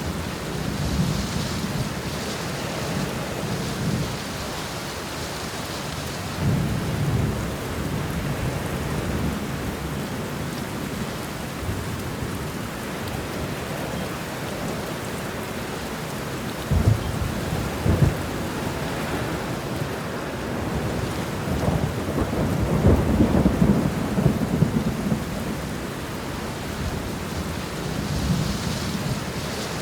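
Steady heavy rain with thunder rumbling again and again. Just past the middle come two sharp cracks about a second apart, followed by the longest and loudest rolling rumble.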